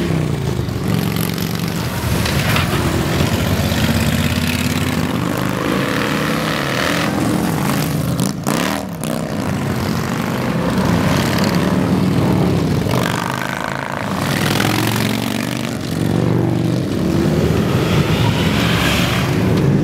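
Many big motorcycles (hogs) rumbling past together, several engines overlapping and rising and falling in pitch as riders rev and go by.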